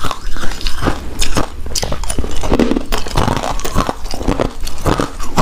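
Close-miked chewing of a chewy rice cake coated in shredded coconut: an irregular run of short mouth clicks and soft bites.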